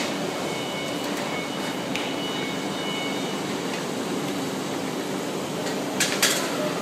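Velcro-tape pressing and gluing machine running with a steady mechanical hum. Faint high tones come and go in the first half, and there is a brief sharp burst of noise near the end.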